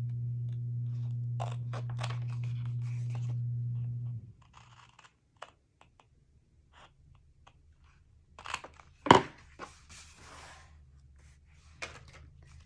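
Card stock being cut at the corners of a paper pocket: short crisp snips and paper rustles, the loudest a sharp snap about nine seconds in. A steady low hum cuts off about four seconds in.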